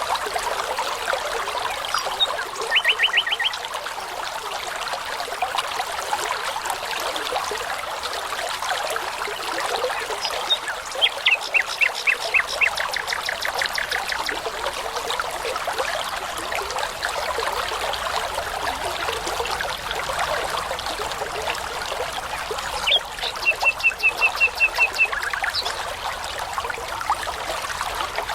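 Babbling brook running steadily, with a songbird singing over it three times: a short burst of rapid repeated notes about three seconds in, a longer run of repeated notes around the middle, and another run near the end.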